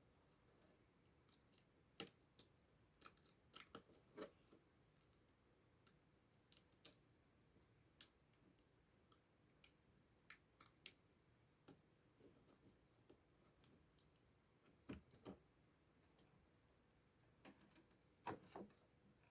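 Near silence broken by faint, scattered clicks and taps of small parts being handled, a few in quick clusters.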